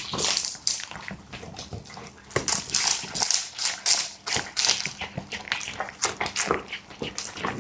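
A dog chewing and eating its food: irregular crunches and mouth clicks that come in quick clusters.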